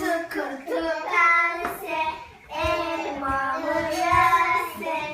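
A young child singing a song in a series of long, held phrases.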